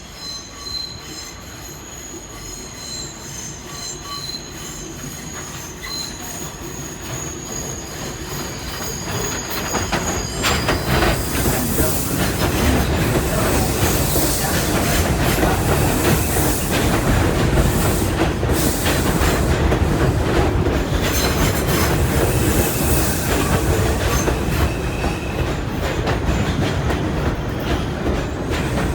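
R142 subway train arriving: a high, thin wheel squeal and rising rumble as it approaches, then from about ten seconds in loud wheel-on-rail noise with squealing and clatter as the cars run in along the platform and slow down.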